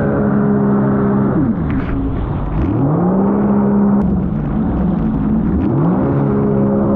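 Sea-Doo GTR 230 personal watercraft's supercharged three-cylinder engine running at steady revs under way, dropping off and climbing back twice as the throttle is let off and reapplied, about two seconds in and again near the end.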